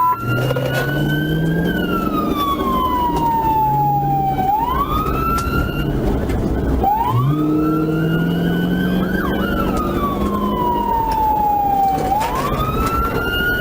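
Police car siren on wail, rising quickly and then falling slowly, about every six seconds, over engine and road noise.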